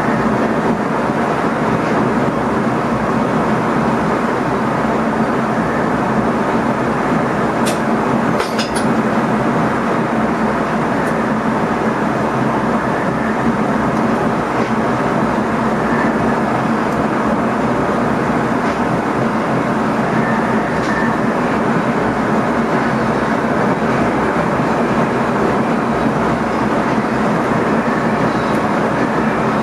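NS ICM electric multiple unit running along the line, heard inside the driver's cab: a steady rumble of wheels on rail with a constant low hum. A few sharp clicks come about eight seconds in.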